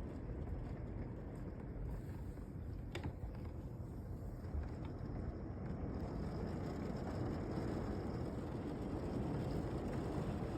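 Heavy rain pouring down as a steady rush of noise that grows slightly louder toward the end, with one faint click about three seconds in.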